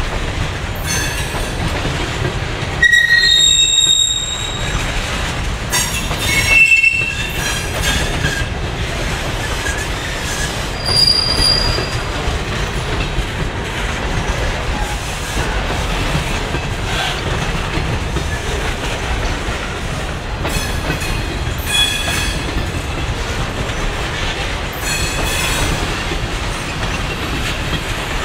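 Insulated boxcars of a freight train rolling past with a steady rumble of steel wheels on rail. Brief high-pitched wheel squeals come and go, loudest about three and seven seconds in.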